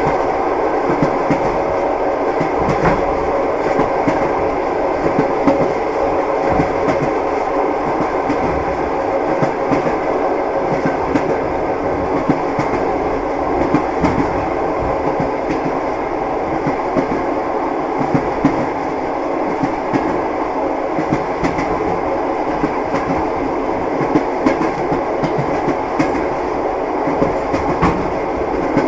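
Train wheels knocking over rail joints with a steady rolling rumble, heard from inside a passenger carriage.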